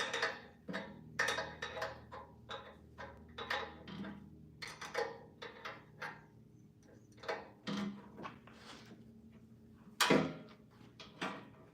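Irregular metallic clinks and knocks of hand tools and metal parts being handled and set down during work on a car, some ringing briefly. The loudest knock comes about ten seconds in.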